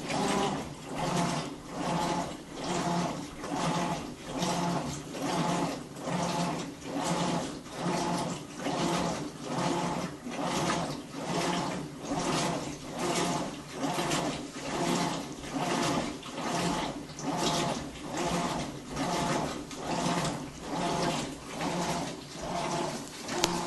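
Whirlpool Cabrio top-load washer running its wash cycle: the motor whines and the water swishes in a steady rhythm, a little more than one stroke a second. The owner finds the noise loud and is unsure whether it is normal.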